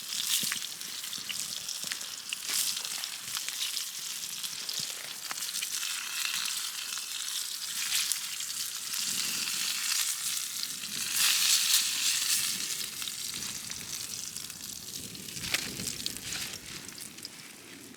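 Food frying in a pan, a steady sizzle full of fine crackles that swells a little partway through and fades toward the end.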